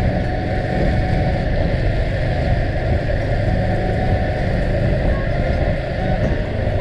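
Steady rumble of a moving vehicle: engine and road noise while driving.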